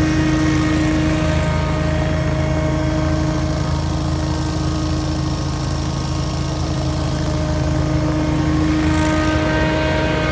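Scag Windstorm stand-on leaf blower running steadily at working speed: engine drone with the fan's steady whine on top, which weakens for a few seconds and comes back strongly near the end.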